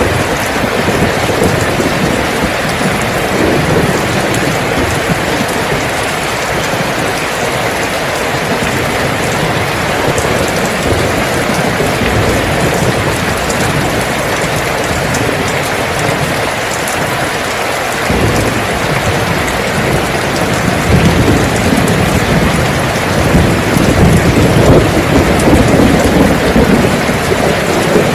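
Steady heavy rain pouring down. About two-thirds of the way in, a low rumble of thunder sets in and grows louder toward the end.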